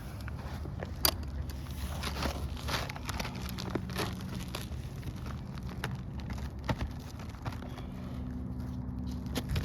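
New asphalt shingle being slid up under the course above, scraping and crackling in short strokes as it catches on leftover nails that ripped through the old shingle, with one sharp knock about a second in.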